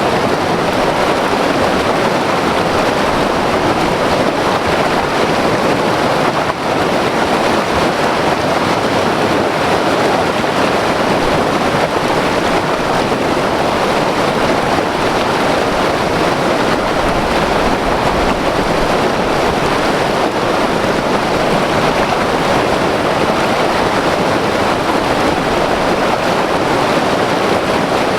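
Himalayan white water river rushing over rocks: a loud, steady roar of turbulent water.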